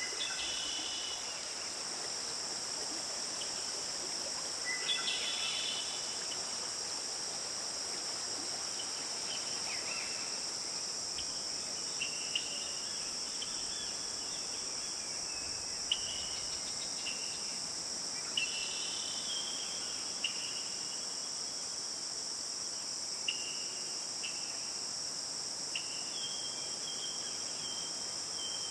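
Forest ambience: a steady, high-pitched chorus of insects such as crickets, with short bird chirps scattered through it.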